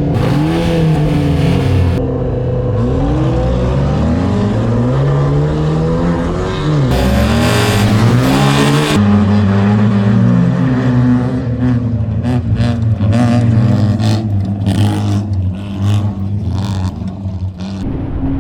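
Rally car engine revved hard under racing, its pitch climbing and dropping again and again through gear changes. From about twelve seconds in, a rapid run of knocks and clatters sounds over the engine.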